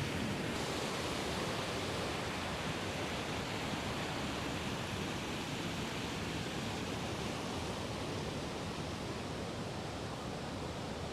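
Rushing water of a waterfall, a steady even rush that eases off slightly toward the end.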